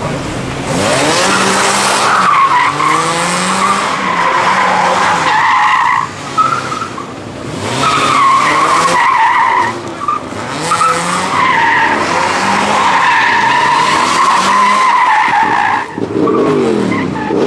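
A car drifting: tyres squealing in three long, wavering screeches, with the engine revving up and down underneath.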